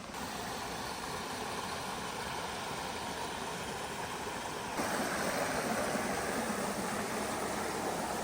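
Fast-flowing water of a beck rushing steadily over rocks. It gets louder about five seconds in.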